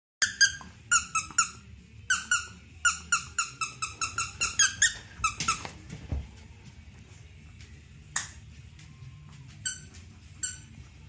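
Squeaky dog toy with two squeakers being squeezed as two dogs tug at it: a rapid run of short squeaks for about five seconds, then three more spaced-out squeaks near the end.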